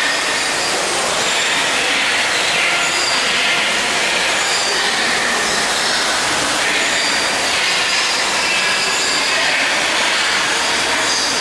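Many birds calling at once in an aviary: a dense, steady din of overlapping chirps, whistles and squeals.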